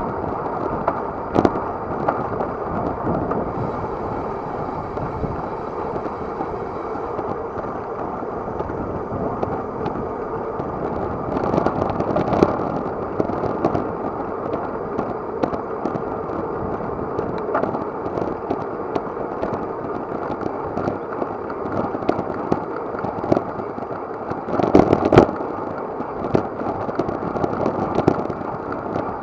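Wind buffeting an action camera's microphone while riding a bicycle at speed, heard as a steady rush with scattered sharp knocks and rattles. Louder gusts or bumps come about twelve seconds in and again near the end.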